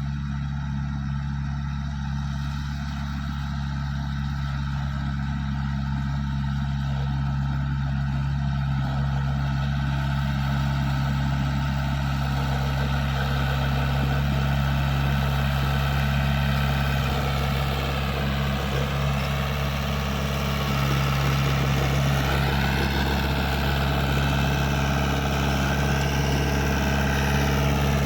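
Komatsu bulldozer's 4D92 four-cylinder diesel engine running steadily, slowly growing louder as more mechanical clatter and hiss fill in from about halfway through, with a wavering whine later on.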